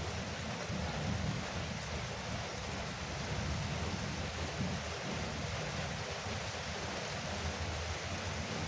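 Heavy rain falling steadily on a veranda roof, an even hiss with a low rumble underneath.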